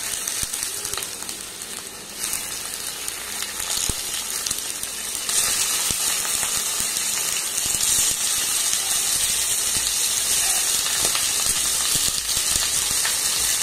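Chicken liver pieces sizzling in hot oil with fried onions in a kadai. The sizzle grows louder in steps as more pieces go in, and is loudest from about five seconds in.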